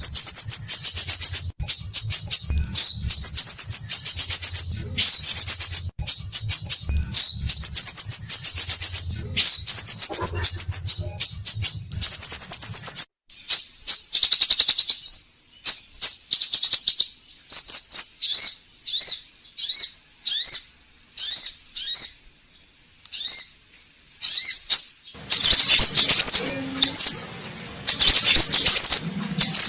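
Scarlet minivet singing: fast runs of high, sharp chirps and whistles. The song breaks off abruptly about halfway through, goes on as spaced single whistled notes about one a second, then turns dense again near the end.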